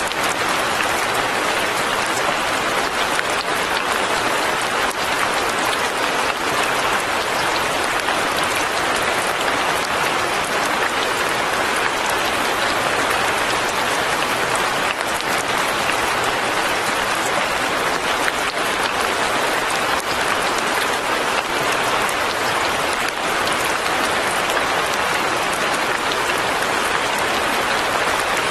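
Light rain falling steadily, an even patter that neither builds nor lets up.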